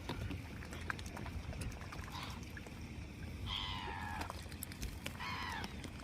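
Young swans calling three times, thin whining peeps that slide down in pitch, the middle call the longest, with faint scattered clicks between them.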